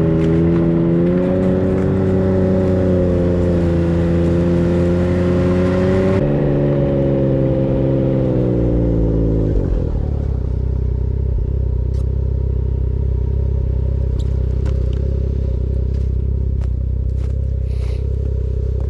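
Vehicle engine running steadily under way, dropping in pitch about six seconds in and again around nine seconds as it slows, then carrying on at a lower, steady rumble.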